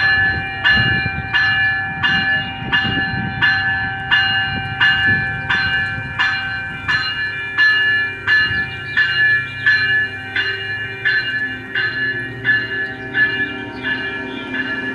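A railway warning bell ringing steadily, about one and a half to two strikes a second, over the low rumble of a train.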